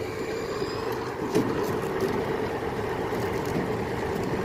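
Steady vehicle engine and road noise, with a single sharp knock about a second and a half in.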